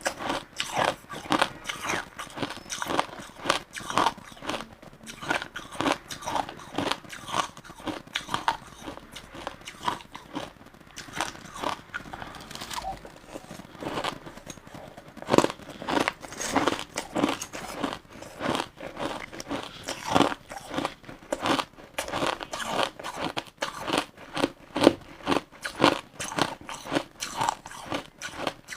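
Crushed ice being bitten and chewed close to the microphone: a dense, irregular run of crisp crunches, several a second, that goes softer for a few seconds about a third of the way in.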